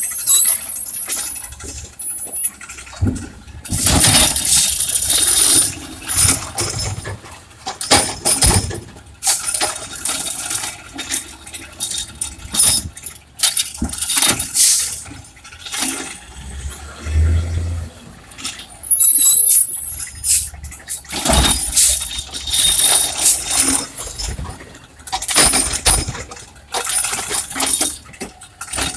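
Recycling truck at work: its engine runs while loads of recyclables clatter and crash into the hopper in repeated bursts every few seconds, with brief high squeals near the start and about two-thirds of the way through.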